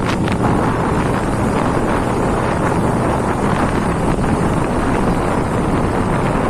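Steady, loud wind noise buffeting the microphone, with the rush of a moving motorcycle underneath.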